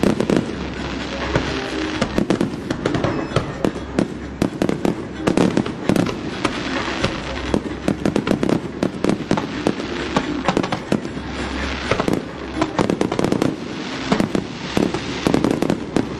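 Fireworks display going off continuously: a dense barrage of bangs and crackling.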